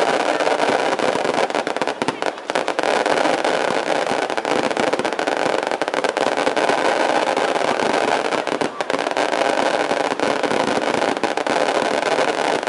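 Dense fireworks barrage: rapid, overlapping crackling and popping that merges into a continuous loud din, with brief dips about two seconds in and near the nine-second mark.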